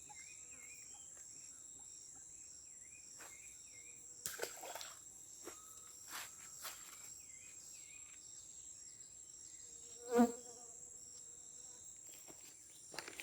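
Steady high-pitched drone of insects, with faint wavering chirps in the first couple of seconds and a few soft knocks. About ten seconds in there is one short pitched sound, the loudest in the stretch.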